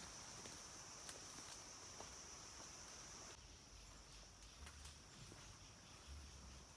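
Insects droning steadily in the forest, a faint high-pitched whine that weakens about three seconds in, with a few faint ticks and rustles.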